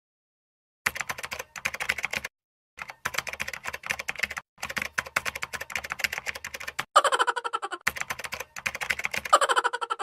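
Keyboard typing sound effect: fast runs of key clicks, broken by short pauses, starting about a second in, as on-screen text is typed out letter by letter.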